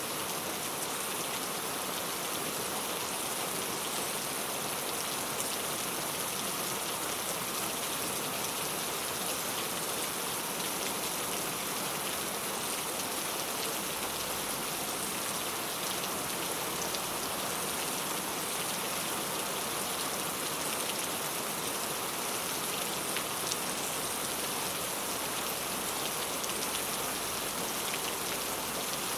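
Steady rain falling on a clay tile roof, an even hiss with scattered individual drop ticks.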